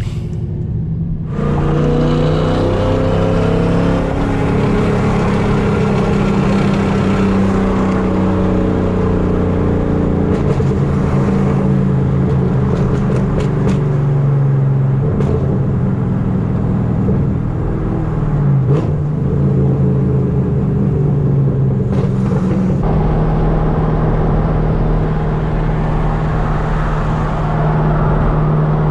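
Fifth-generation Camaro SS's LS3 V8 running through long-tube headers with a loud exhaust. It comes in abruptly about a second in, and its pitch rises and falls with the throttle as the car drives.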